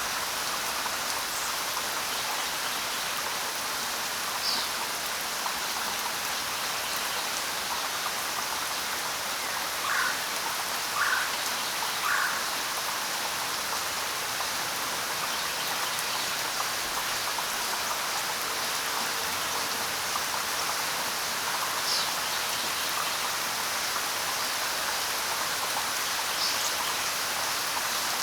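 Steady, even rain. A few short animal calls cut through it: three quick ones in a row about ten seconds in, and now and then a single brief high chirp that falls in pitch.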